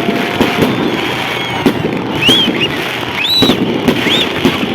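Fireworks going off in a dense barrage of bangs and crackles, with several short high tones that rise and fall, about one every second.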